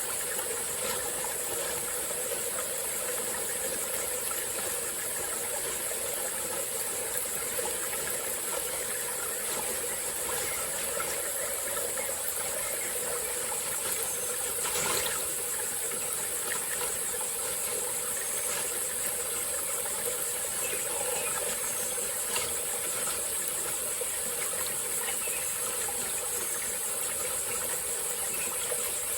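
Small tropical forest stream flowing steadily, under a constant high-pitched insect drone. A single brief knock about halfway through.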